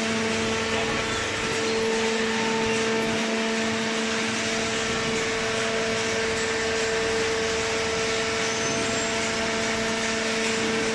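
Hydraulic baler's electric motor and pump running steadily, a constant machine hum with a steady drone over it.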